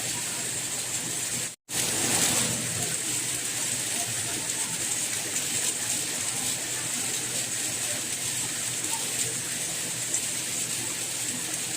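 Steady rain hiss that cuts out for an instant about a second and a half in, then comes back slightly louder for a moment before settling.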